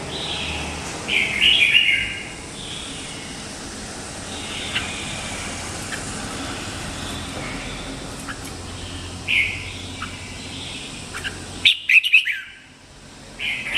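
Red-whiskered bulbul singing short bright warbled phrases: one about a second in, another about nine seconds in, and the loudest near the end, with a few brief chips between.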